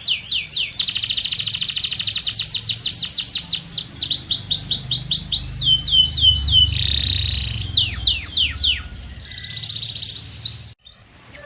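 Domestic canary singing a long song of rapidly repeated phrases: runs of quick downward-sweeping whistled notes, several a second, with a fast buzzy trill among them. The song cuts off abruptly near the end.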